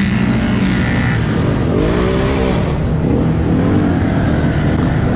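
ATV engines running loudly, one revving up and back down about two seconds in.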